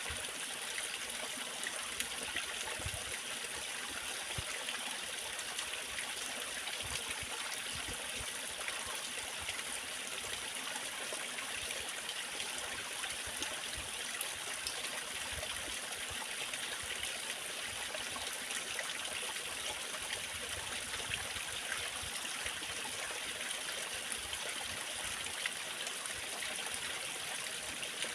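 Small waterfall or cascade, water splashing and rushing steadily with no change.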